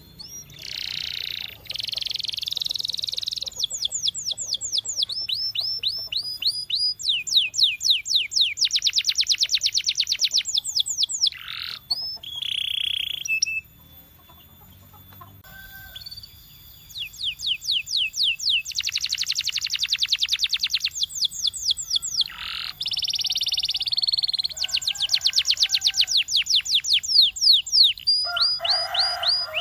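Domestic canary singing: phrase after phrase of rapid repeated high notes, some trills faster and some slower, with a short break about halfway.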